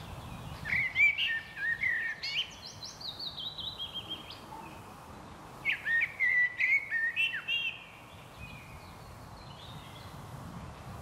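A songbird singing two phrases of quick chirping notes, about a second in and again just past the middle; the first ends in a run of notes stepping down in pitch. Under it is a steady outdoor background hiss.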